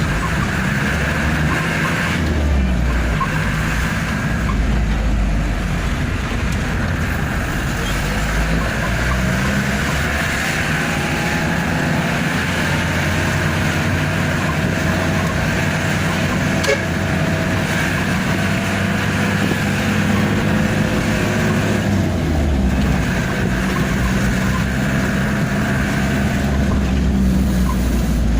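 A truck's diesel engine running steadily as it drives, with its pitch shifting about two seconds in and again near the end. There is one short click about two-thirds of the way through.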